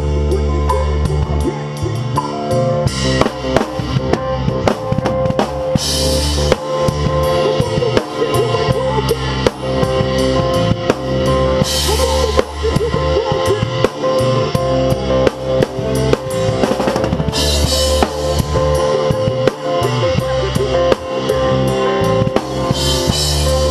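Rock drum kit played hard with the band: steady bass drum and snare with rimshots, and crash cymbals struck for accents every few seconds, over sustained bass and guitar.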